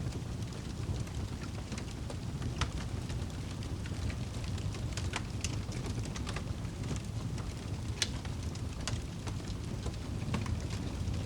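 Wood fire burning in a fireplace: a steady low rumble of flames with irregular sharp crackles and pops, one of the louder pops about eight seconds in.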